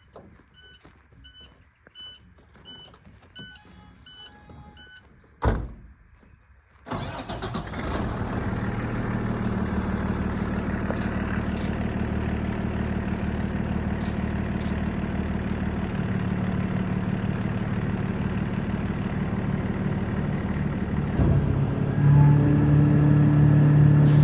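A truck cab's warning chime beeps about twice a second with the key on. After a click, the Cummins ISB 6.7 L turbo diesel of a 2016 International DuraStar 4300 dump truck starts about seven seconds in and settles into a steady idle. Near the end the engine steps up to a louder, higher-pitched run.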